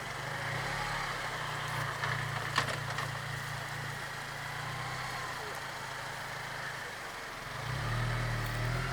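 2008 Honda Civic Si idling while its front wheels are turned, with a few short knocks from the front end, the sharpest about two and a half seconds in. This is the turning noise the owner suspects comes from the bump stops or the steering rack bolts. The engine note gets louder near the end.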